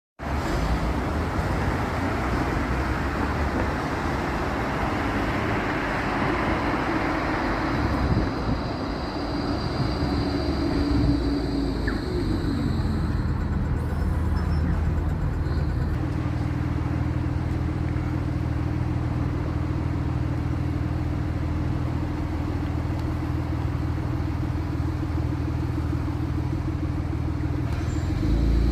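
A tram approaching along a street, with road traffic. There is a steady rumble, then a tone that falls in pitch about ten seconds in, then a steady low hum from about sixteen seconds on.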